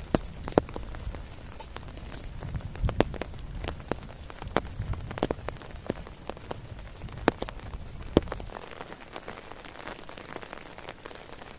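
Rain falling steadily, with large drops landing in irregular sharp taps. A low rumble underneath cuts out about eight and a half seconds in, and a faint high triple chirp is heard twice.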